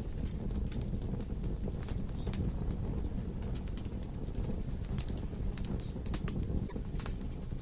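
Wood fire burning in a fireplace: a steady low rush of flames with irregular sharp crackles and pops from the burning logs, sometimes several in quick succession.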